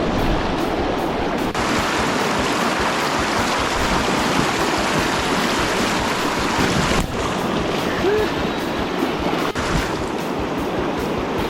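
Steady rushing of a swollen river's current, high water after heavy rain, with a few abrupt breaks in the sound.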